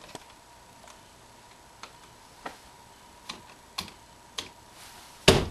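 A few scattered light clicks and taps of handling, then one loud thump near the end.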